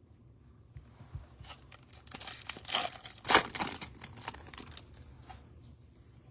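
Trading-card pack wrapper being torn open and crinkled by hand: a run of papery rustling strokes, loudest about three seconds in.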